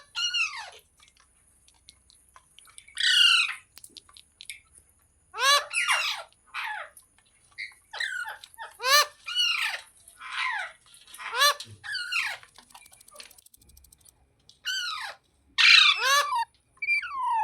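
A green ringneck parrot giving a string of short, harsh squawking calls, each dropping in pitch, about a dozen of them with a couple of short pauses between.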